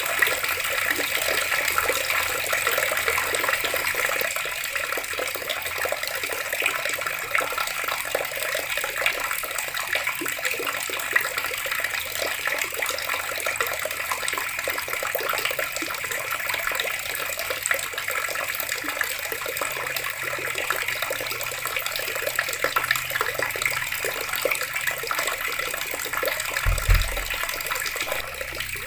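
Water running steadily from a tap and splashing, a continuous even rush with fine spattering. Near the end there is a brief low thump.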